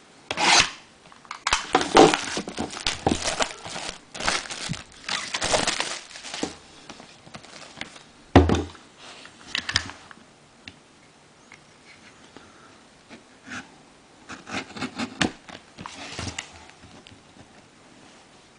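Plastic wrapping on a sealed trading-card box crinkling and tearing as the box is unwrapped and opened, with one sharp knock about eight seconds in and lighter rustling and handling clicks after it.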